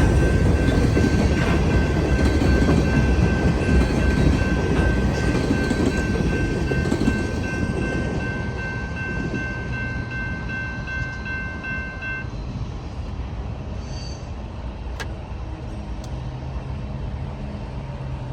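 Freight train rolling past with a heavy rumble that slowly fades as it moves away. A steady high-pitched tone made of several notes sounds over it and cuts off about twelve seconds in.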